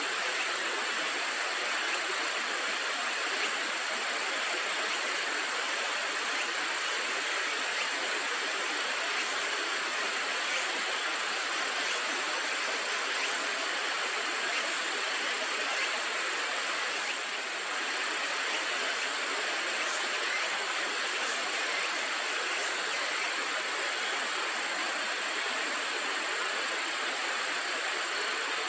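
Steady rushing of river water, an even noise with no pauses, with faint irregular high ticks over it.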